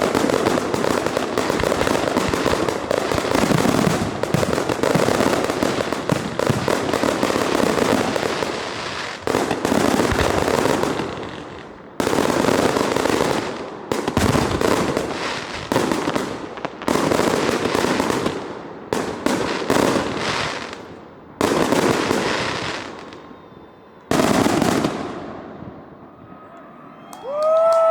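Aerial fireworks: a dense barrage of rapid overlapping bangs and crackle for about the first nine seconds, then single shell bursts every second or two, each trailing off in fading crackle and thinning out toward the end.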